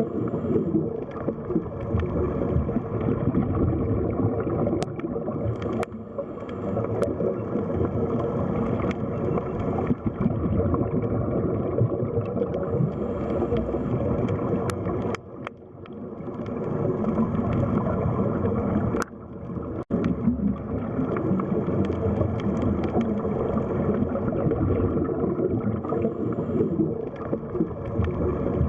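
Underwater sea ambience: a steady, muffled low rush of water with gurgling, broken by a few faint clicks and two brief dips in the middle.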